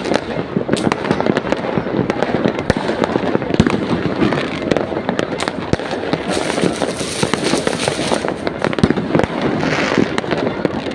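Many fireworks and firecrackers going off at once in a dense, continuous crackle of overlapping bangs and pops, with no pause.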